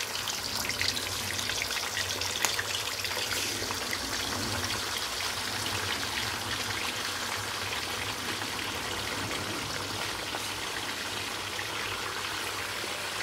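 Chicken pieces frying in hot oil and ghee in a deep pan on high heat: a steady sizzling hiss, with a few sharp pops in the first few seconds.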